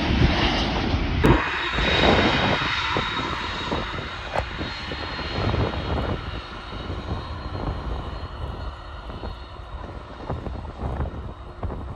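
Airliner engine noise, loud at first and fading steadily as the aircraft moves away, with a faint high whine running through it. A sharp click sounds about a second in.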